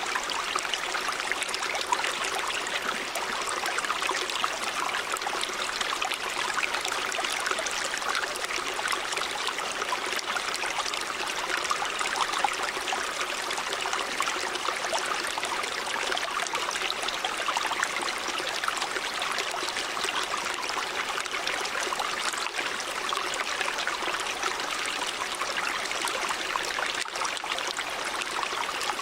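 A river running: steady rushing and splashing of water over rocks, even throughout, with fine trickling detail.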